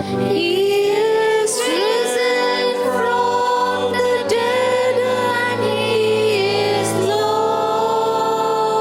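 Closing music: a voice singing held notes with vibrato over a steady instrumental accompaniment.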